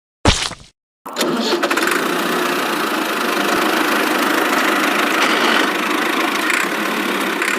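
One short sharp hit, then about a second in an engine-like running sound starts abruptly and runs steadily, with little bass.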